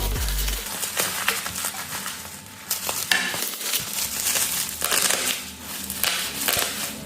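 Crunching and crackling from a smashed smartphone being worked apart by hand: a run of irregular sharp cracks and scrapes.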